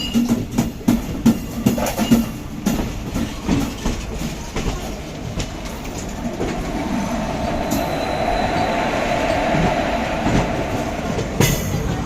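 WAG9HC electric locomotive hauling a dead WAG7 locomotive along the track. Wheels clatter over rail joints at first, then from about halfway through a steadier, louder running noise builds.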